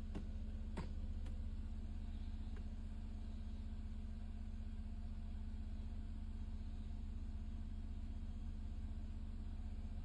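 Car engine idling steadily, heard inside the cabin. A few sharp clicks come in the first three seconds, the loudest about a second in, as the automatic gear lever is moved.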